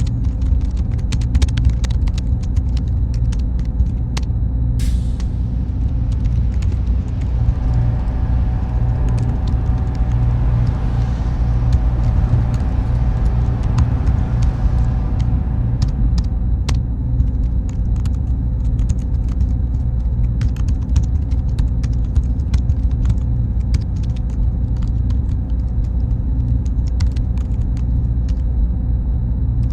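Steady low machine rumble with a thin high whine and scattered faint ticks. Partway through, a band of hum swells up and fades away again.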